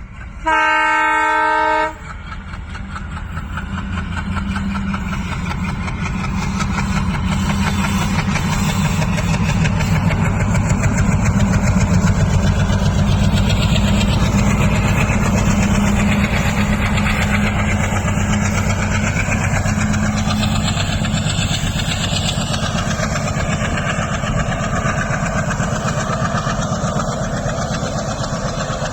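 ALCO diesel locomotive giving one horn blast of about a second and a half near the start, then its engine chugging louder and louder as the train approaches and runs past.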